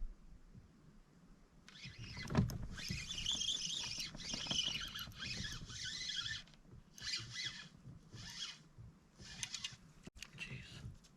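Fishing reel being cranked in several spurts, a whirring that winds line in, with one long run of cranking then shorter turns toward the end; a knock about two seconds in.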